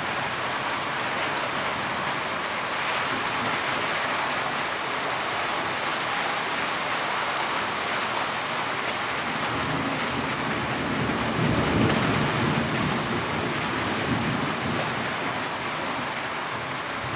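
Steady rain falling, an even hiss. About eleven seconds in, a low rumble swells for a couple of seconds and then fades back under the rain.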